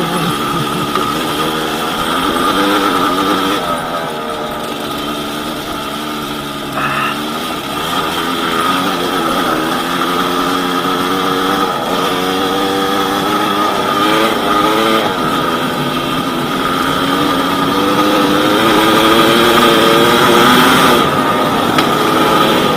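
Yamaha DT200WR two-stroke single-cylinder engine being ridden, its note climbing under throttle and dropping back several times through the gears.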